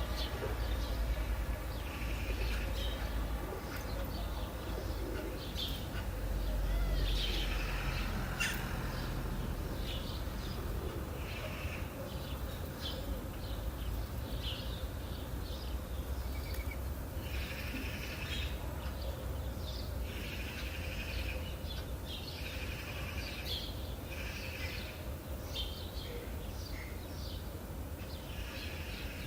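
Songbirds chirping and trilling in repeated short phrases, over a low steady outdoor rumble.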